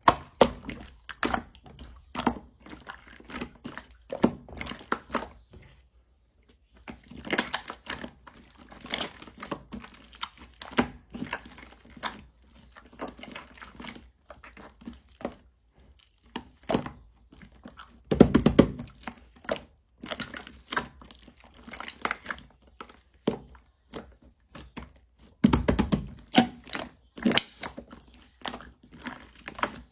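Slime with clay mixed in being kneaded and pressed by hand: irregular sticky crackles, small pops and soft thunks, with two louder squishes, one past the middle and one near the end.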